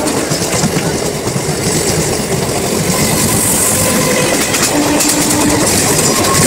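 A passenger train running, heard through an open carriage window: a steady, loud rumble and rattle of wheels on rails, close against the coaches of a local train on the next track.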